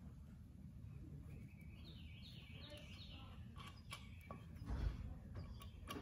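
A bird calls faintly, a quick run of short falling chirps in the first half. Then come a few light metallic clicks and one dull knock as a motorcycle engine's aluminium crankcase half is handled on a towel.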